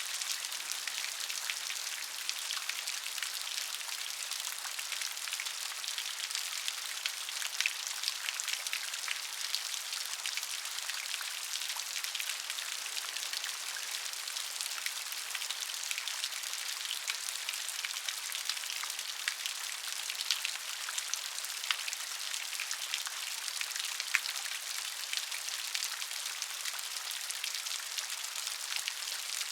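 Steady rain with many small drops ticking, a few larger drops striking louder here and there.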